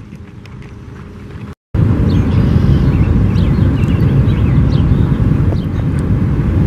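Outdoor field noise: a loud, steady low rumble, most likely wind buffeting the microphone, that starts abruptly at a cut about a second and a half in, with a few faint high chirps over it.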